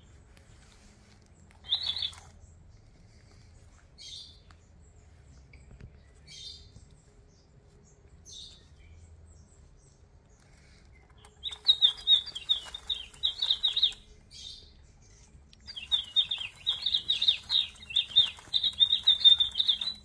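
High-pitched bird chirping. A single short call comes about two seconds in, followed by a few faint calls. Then come two long runs of rapid, repeated chirps, one about halfway through and one near the end that stops abruptly.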